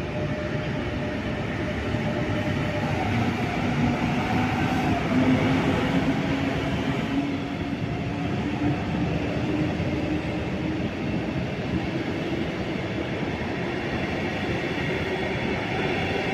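Red double-deck regional train running along a far platform track, a steady rumble with a motor whine that rises slowly in pitch.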